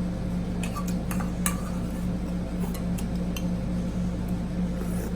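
A few light, short clinks of tableware, utensils against a dish, scattered over a steady low hum.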